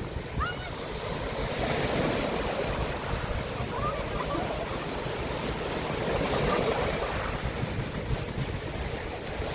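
Surf washing onto a beach, swelling and easing in waves, with wind buffeting the microphone.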